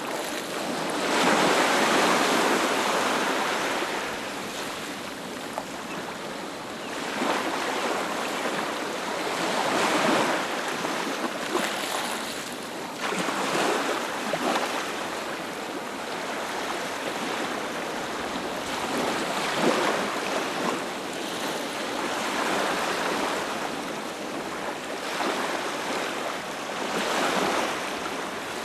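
Ocean surf breaking on a beach: a continuous wash of waves that swells and ebbs every few seconds, loudest about two seconds in.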